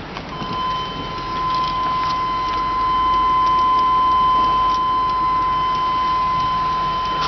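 Warning buzzer in a 1997 Chevrolet Suburban LT, one steady unbroken tone that comes on about half a second in and keeps sounding.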